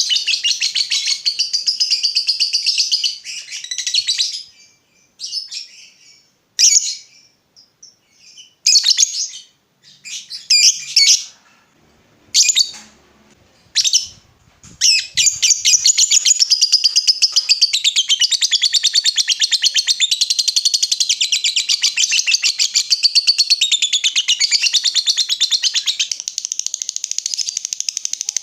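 Lovebird singing its long 'ngekek' chatter: very rapid, high-pitched trills. The song breaks into short bursts with gaps for several seconds in the middle, then runs on as one long unbroken trill for the second half.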